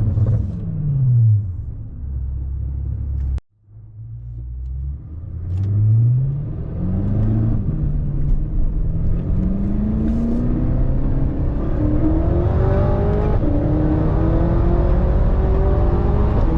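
BMW F10 M5's twin-turbo V8 through an X-pipe exhaust: the revs fall off, the sound cuts out briefly about three and a half seconds in, then the engine pulls hard. Its pitch climbs quickly, dips once at a gear change, then rises steadily through a long pull.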